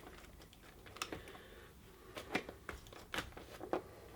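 A handful of light, irregular clicks and knocks of hard parts being handled and shifted as a motorcycle's carburettor bank is worked into place between the inlet rubbers.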